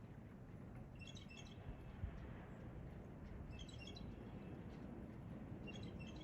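A small songbird chirping: three short bursts of quick high chirps, about two and a half seconds apart, over a steady low background rumble.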